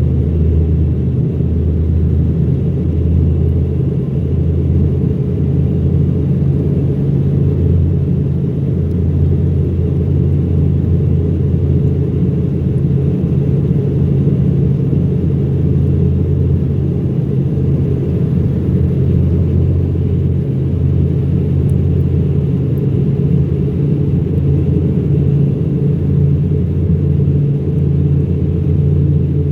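Embraer EMB-120 Brasilia's twin turboprop engines and propellers heard from inside the cabin: a steady, loud, low drone with a deep propeller hum, on the approach to landing.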